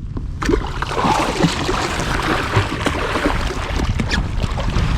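Water splashing and sloshing beside a kayak as a hooked coho salmon thrashes at the surface while it is brought in, over a steady low rumble.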